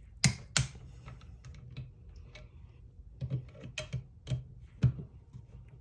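Sharp metallic clicks and knocks of hand tools on the transmission's 10 mm cover bolts as they are torqued to 120 inch-pounds: two loud clicks just after the start and a handful more, irregularly spaced, a few seconds in.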